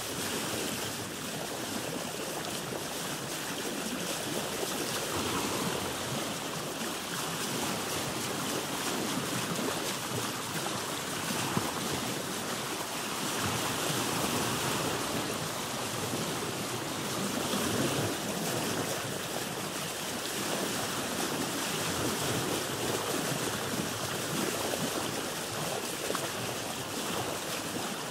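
Sea water washing and lapping around a boat: a steady wash of waves that swells and eases gently.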